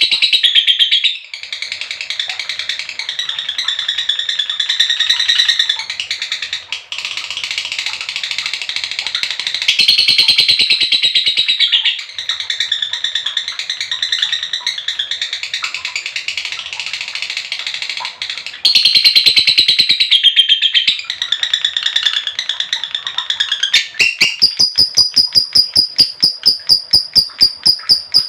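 Female lovebird's long chattering trill (ngekek): rapid, high-pitched repeated notes run together in loud stretches of several seconds with brief breaks. About 24 seconds in it changes to a clearer, evenly pulsed rapid trill of high notes.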